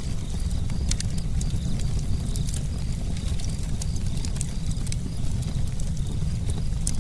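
Campfire burning, with a steady low rumble and frequent irregular sharp crackles and pops from the burning wood.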